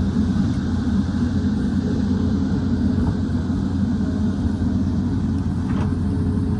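Excavator's diesel engine running steadily with a constant low rumble.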